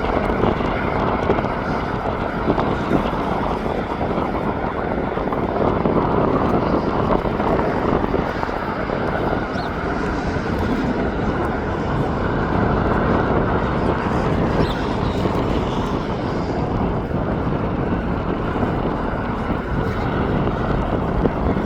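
Jet airliner engines running, a steady even noise that swells slightly now and then.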